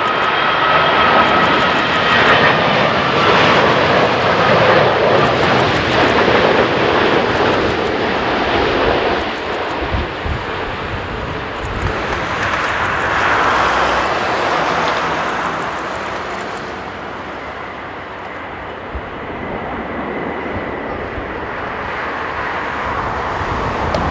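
Jet airliner passing low on its landing approach: a whining engine fan tone that glides slightly down over broad jet noise, loudest over the first few seconds, swelling again around the middle, then dying down.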